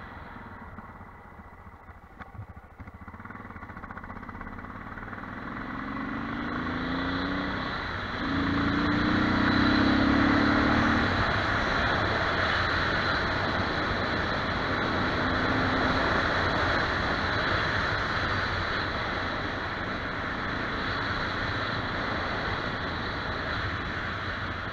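Armstrong MT500 motorcycle's single-cylinder engine, quiet at first, then pulling away with its note rising. It gets louder about eight seconds in and then runs steadily at road speed.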